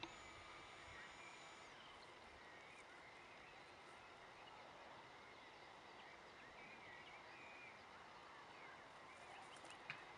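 Quiet outdoor ambience: faint birdsong chirping over a low steady hiss, with a single sharp tick near the end.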